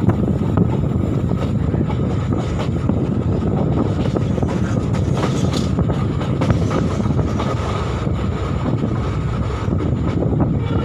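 Passenger train rolling along the track: a steady rumble with the wheels clicking over rail joints.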